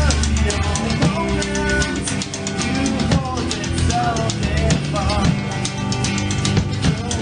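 Rock music with a drum kit keeping a steady beat under electric guitar, some notes bent in pitch.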